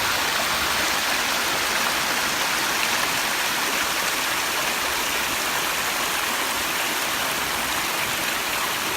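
Steady rush of falling water from a mountain waterfall.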